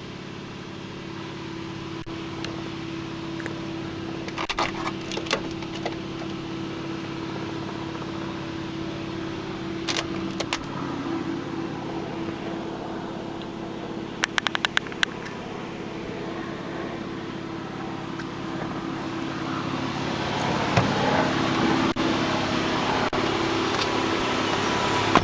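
Steady low mechanical hum, with a few short clicks about ten seconds in and a quick run of clicks about fourteen seconds in.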